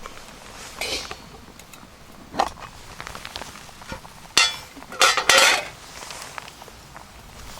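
Metal camp cookware and utensils clinking and clattering as they are handled, in a handful of separate knocks, the loudest cluster about five seconds in.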